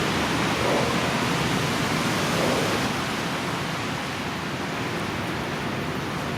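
R142 subway train running along the elevated track: steady noise of wheels on rail, easing a little about three seconds in.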